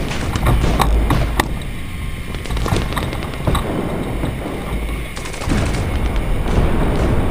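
Airsoft guns firing: sharp pops at irregular intervals, several in the first second and a half and scattered after, over a steady low rumble of wind on the microphone.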